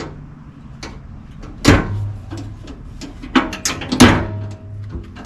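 Aftermarket aluminum door on a Honda Talon 1000X-4 side-by-side being slammed shut twice, about two seconds apart, each time with a sharp metallic bang and a brief low ringing. Smaller clanks and clicks come between the slams as the newly hung door is shut to line it up on its hinges.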